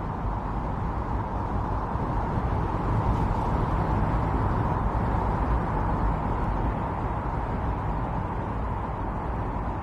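Strong storm wind blowing steadily, with a deep rushing and a whistling band in the middle, swelling a little a few seconds in.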